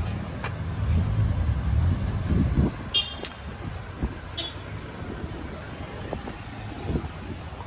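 Street traffic: a heavy vehicle's engine, a bus or truck, running close by with a low rumble that is strongest in the first two seconds and then eases. A few short high chirps come about three to four seconds in.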